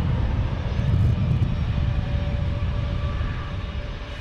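Jet airliner on landing approach: a steady deep engine rumble that eases slightly toward the end, with a faint steady whine coming in partway through.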